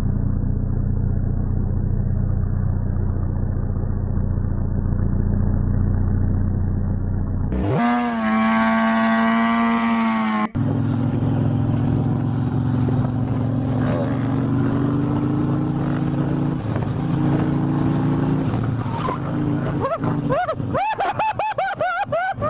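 Vehicle engines running across several short cut-together clips: a steady low drone, then an engine revving up and holding its pitch for a few seconds, then another engine running steadily.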